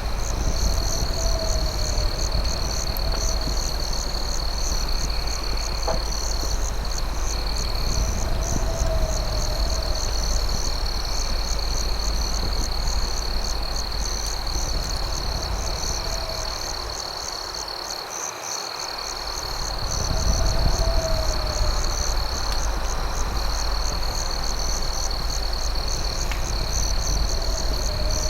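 Night insect chorus: crickets trilling steadily on one high note with short breaks, and faster pulsing insect calls just above. A lower call rises and falls about every three seconds. All of it sits over a low rumbling noise that dips briefly midway, with an occasional single click.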